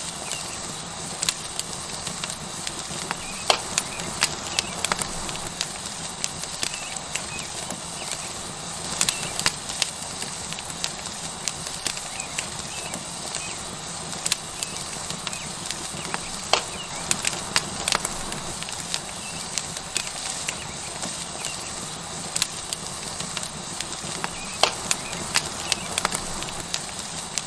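Tomahawk steak sizzling on a hot rock over a wood fire: a steady hiss with frequent sharp, irregular crackles and pops from the burning wood.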